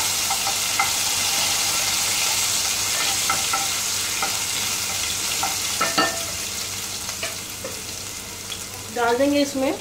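Ginger-garlic paste sizzling in hot oil in an aluminium pot, stirred with a wooden spoon that scrapes and knocks against the pot, with a sharper knock about six seconds in. The sizzle slowly dies down over the last few seconds.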